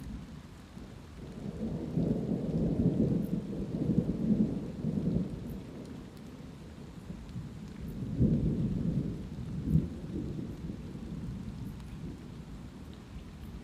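Thunder rumbling over light, steady rainfall: a long low rumble swells from about a second and a half in and fades out after about four seconds, then a second, shorter rumble comes near the two-thirds mark, with a sharper crack in it.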